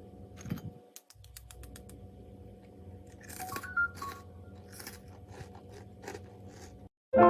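Crisp microwaved bread cubes crunching and crackling in a series of sharp irregular crunches, busiest about halfway through, over a steady low hum.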